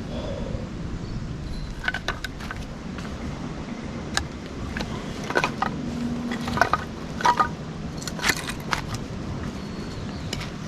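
Irregular small clicks, clinks and light knocks, like gear being handled, over a steady low rumble. The clinks come more often in the second half.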